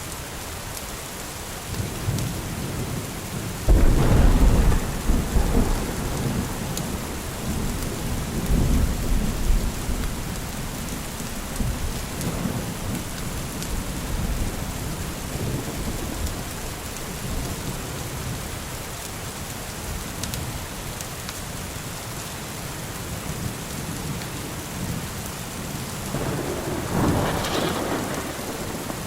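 Steady rain with thunder. A loud thunder rumble breaks about four seconds in and rolls on for several seconds. Another thunderclap comes near the end.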